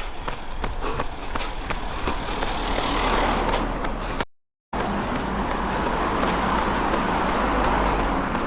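Road-vehicle noise swelling and fading twice, over quick footsteps of runners on the road; the sound drops out completely for about half a second near the middle.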